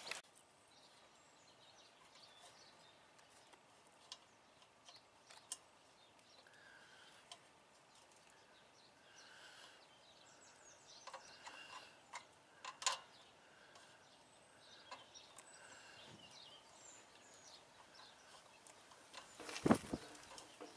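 Quiet outdoor ambience with a bird calling over and over, and a few sharp clicks and knocks, the loudest one near the end.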